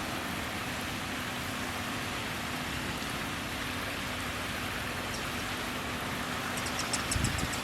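Steady rushing noise of a stream or river. Near the end a bird gives a quick series of high, thin notes.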